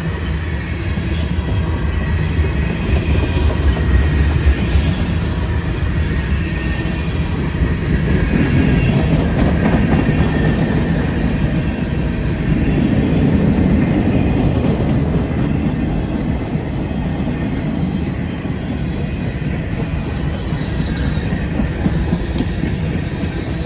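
Tank cars of a long Union Pacific manifest freight train rolling past close by: a steady rumble of steel wheels on rail that swells louder a couple of times.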